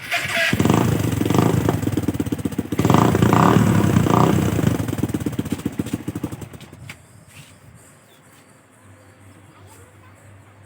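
Suzuki Satria FU single-cylinder 150 cc motorcycle engine running through its exhaust, given several short blips of the throttle, then quietening sharply about seven seconds in.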